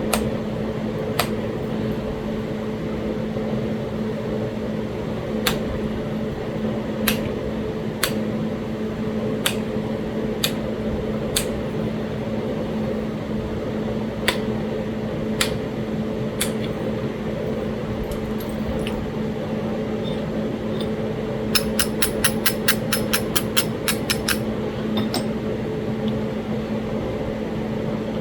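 Sharp clicks of stone being worked while flintknapping Talahata quartzite, mostly single clicks a second or more apart, then a quick run of about a dozen clicks, roughly four a second, near the end. A steady low hum runs underneath.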